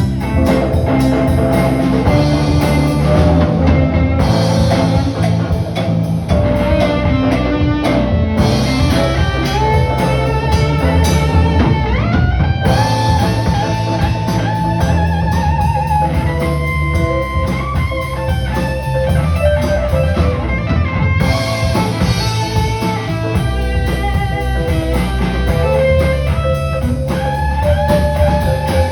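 Live band playing an instrumental rock passage: guitars over a drum kit. A melodic lead line slides upward about twelve seconds in.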